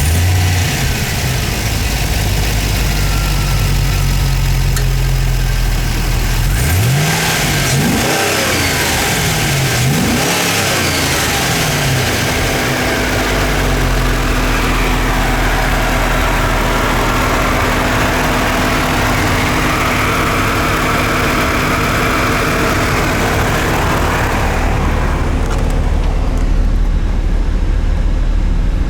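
2006 Pontiac GTO's 6.0 L LS2 V8 idling steadily, revved up and back down a couple of times around seven to twelve seconds in, then settling back to idle.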